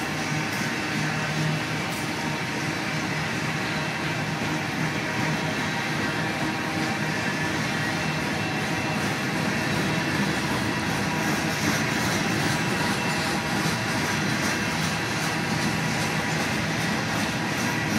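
Freight cars of a ballast train rolling past: the steady rumble of steel wheels on rail.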